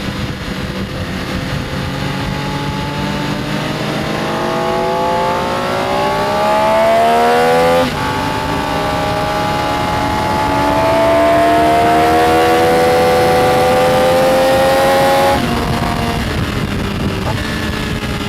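Benelli Tornado Tre 900's inline three-cylinder engine accelerating hard, rising in pitch. The revs drop sharply at an upshift about eight seconds in, then climb again until about fifteen seconds in, when the throttle closes and the revs fall.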